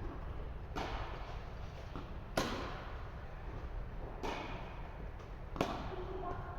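Tennis rally: a ball struck four times by rackets, roughly every one and a half to two seconds, each hit echoing briefly in an indoor court.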